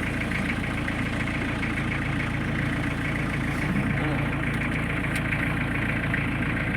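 Off-road jeep's engine idling steadily.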